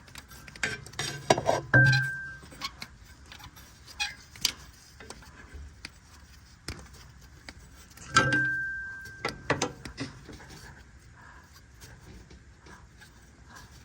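Scattered light metallic clicks and knocks as a crankshaft position sensor is worked by hand into its bore in the engine block, with two brief ringing tones over a dull knock, about two seconds in and again about eight seconds in.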